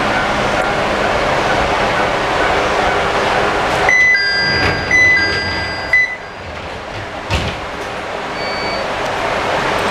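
Ichibata Electric Railway train at the platform with its steady running noise. About four seconds in, a repeating electronic door chime sounds, and the sliding doors shut with a thud about six seconds in. A second thump follows, then the running noise builds again as the train gets ready to leave.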